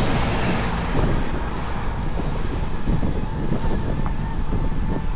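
Wind buffeting the handlebar-mounted camera's microphones while riding, a dense low rumble, with a faint steady high whine underneath. A passing vehicle's low hum fades out in the first second.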